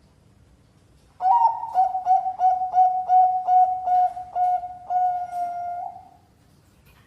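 Zebra dove (Bangkok-type perkutut) cooing. About a second in, it starts a run of about a dozen short notes at one steady pitch, roughly three a second, and closes with a longer held note.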